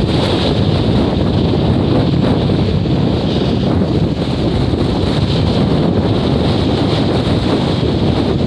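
Strong gusting wind, loud and buffeting the microphone with a steady rumbling rush.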